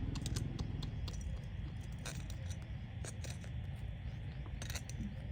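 Irregular small sharp clicks and crackles over a steady hiss.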